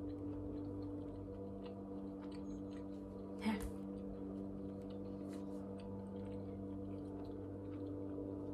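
Quiet chewing and small mouth clicks of a person eating close to the microphone, over a steady low hum. One brief louder sound about three and a half seconds in.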